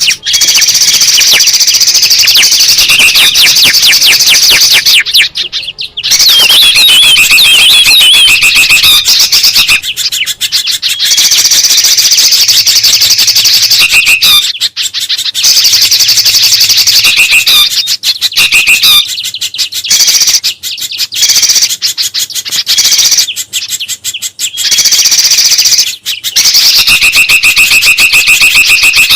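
Loud, agitated chattering and calling of small songbirds, a bird-lure recording of bulbuls and spiderhunters, coming in bursts of one to a few seconds with short breaks between them.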